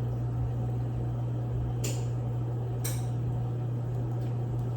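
A steady low electrical hum, with two faint short clicks about a second apart near the middle.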